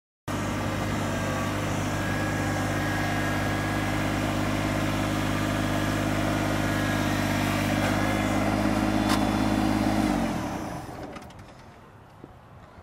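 Compact Kubota tractor's small three-cylinder diesel engine running at a steady idle, then shut off about ten seconds in, its note sagging as it winds down to a stop.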